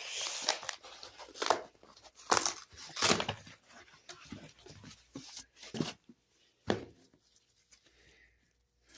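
A comic book shipping mailer being torn open by hand: a run of short ripping and crinkling sounds over the first six seconds, then a single knock and little else.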